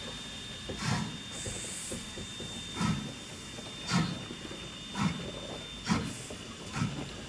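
Narrow-gauge steam locomotive's exhaust chuffing slowly, about one chuff a second and gradually quickening as it gets under way, over a steady steam hiss.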